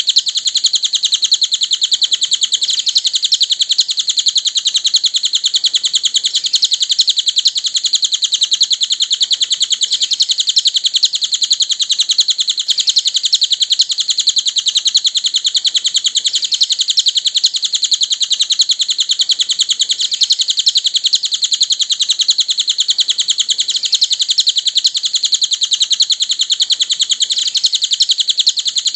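Cililin bird song used as masteran: a continuous stream of very fast, high-pitched chirps repeated without a break.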